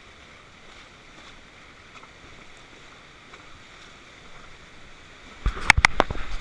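Rushing river water around a raft, with a sudden burst of loud, sharp knocks and crackles about five and a half seconds in.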